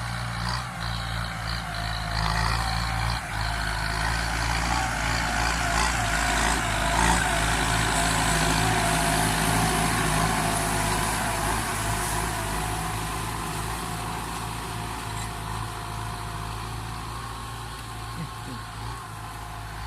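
Kubota M9540 tractor's diesel engine running steadily under load while levelling soil, growing a little louder in the first seconds and easing off slightly toward the end.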